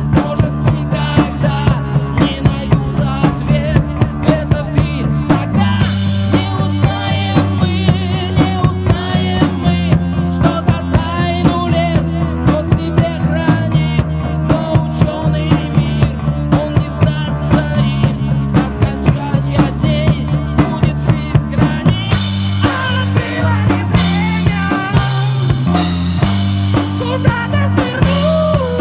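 Live rock band playing an instrumental passage: a steady bass line and drum kit under a wavering melodic lead line. About three-quarters of the way through, the sound grows brighter as cymbals come in harder.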